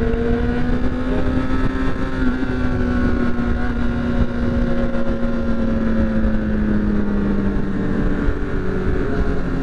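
Motorcycle engine running steadily at cruising speed, its drone sagging slightly in pitch, with wind rushing over the rider's camera microphone.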